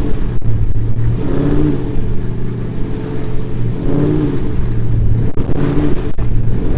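Truck engine running loudly, with a few short revs.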